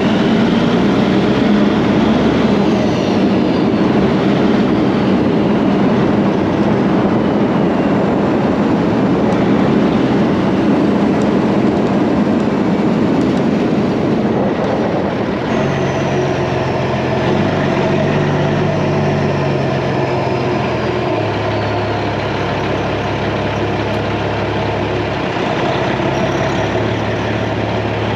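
A Peterbilt 379 semi truck running on the road: a loud, rough road and engine noise. About halfway through it gives way to a steady engine hum that steps up and down in pitch a few times.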